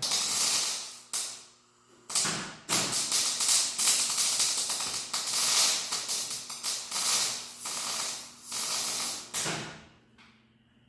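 Electric arc welder crackling and sizzling in several bursts with short pauses, welding a nut onto the end of a distributor shaft to make an oil-priming tool. The welding stops shortly before the end.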